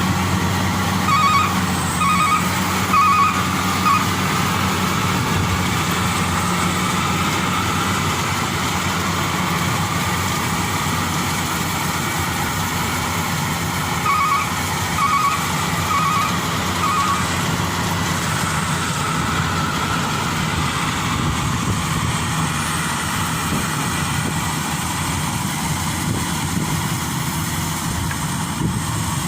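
Heavy vehicle engine running steadily at a constant pitch. Twice, a run of four short electronic beeps about a second apart sounds over it, near the start and again about halfway through, like a reversing alarm.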